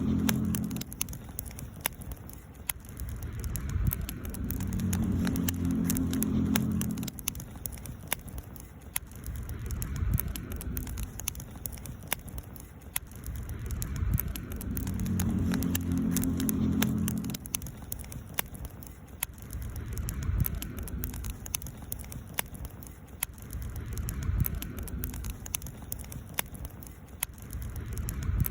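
Wood campfire crackling, with many small sharp pops, over a low rumble that swells and fades every few seconds.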